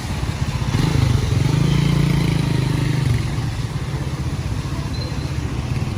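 A motor vehicle's engine running close by on the street, growing louder about a second in and easing off after about three seconds, as a vehicle passing.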